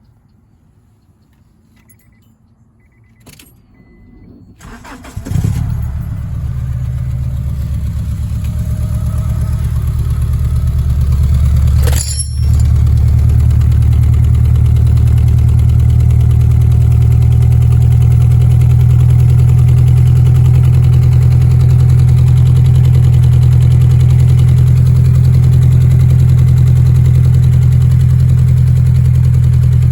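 A 2000 Honda Accord with an Evil Energy aftermarket muffler starts up about five seconds in, after a few faint clicks, and settles into a steady, loud idle through the exhaust. There is a brief thump about twelve seconds in.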